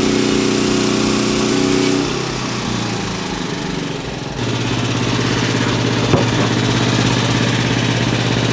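Portable bandsaw sawmill engine running steadily. About two seconds in its note breaks up and drops a little in level, then settles into a new steady note a couple of seconds later, with a single click near the six-second mark.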